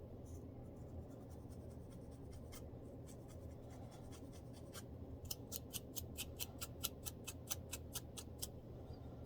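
Scratching at a dandruff-flaked scalp in close-up. First come a few light, scattered scratches, then from about five seconds in a quick run of short, crisp strokes, about five a second, for around three seconds.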